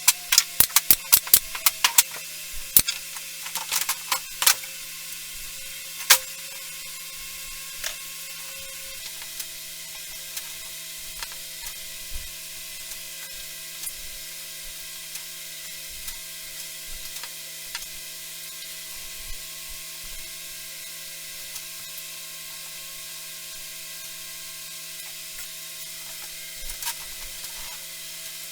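A quick run of sharp clicks and knocks in the first few seconds, then scattered light taps, over a steady hiss and hum: tools and parts being handled in a workshop.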